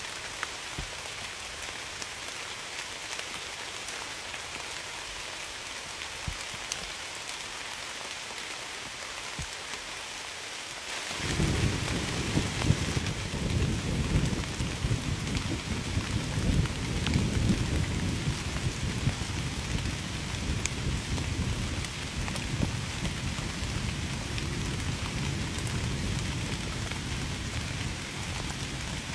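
Steady heavy rain hissing. About eleven seconds in, a deep rumble of thunder comes in suddenly and keeps rolling under the rain.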